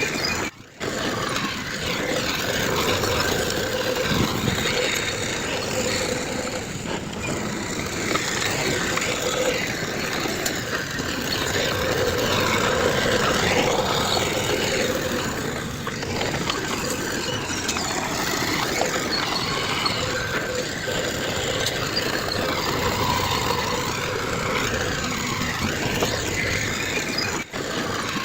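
Heavy diesel earthmoving machinery running steadily, with two brief drops in sound: one just after the start and one near the end.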